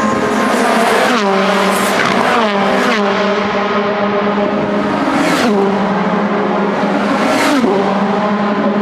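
WTCC touring cars with 1.6-litre turbocharged four-cylinder engines passing close at high speed, about five passes, each engine note dropping sharply in pitch as the car goes by, over a steady drone.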